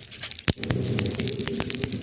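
Wood fire crackling, with sharp, irregular snaps and pops. A steadier low sound from the fire joins about half a second in.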